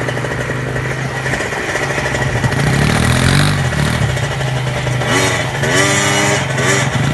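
Quad bike engine running, revving up and back down about two and a half seconds in, with more revving that rises and falls in pitch near the end.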